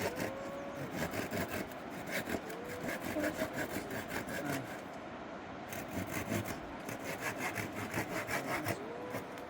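Hand saw cutting wood in quick, even strokes, with a short pause about halfway through.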